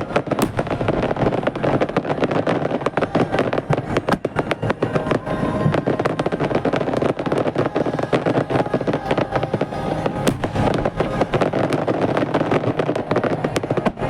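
Dense barrage of aerial fireworks shells bursting, a rapid, uneven run of overlapping bangs and crackles with a continuous rumble underneath.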